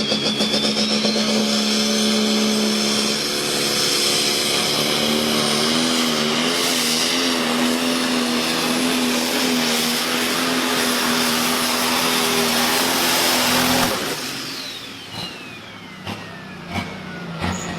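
International Harvester pulling tractor's engine running hard at full throttle during a pull, its pitch wavering slightly, then cut off suddenly about fourteen seconds in, leaving a thin whine that falls in pitch as it winds down.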